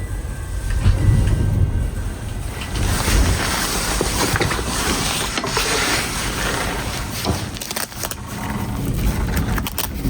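Blizzard wind gusting, with low rumbling buffets at first and then a broad rushing hiss that builds about two and a half seconds in and eases near the end.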